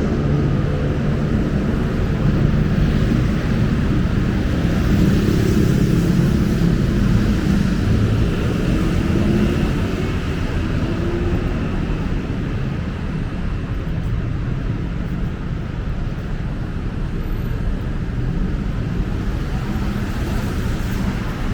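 City street traffic: the engines of vehicles passing close by, with a low engine note that is strongest for the first several seconds and then eases into a steadier traffic hum.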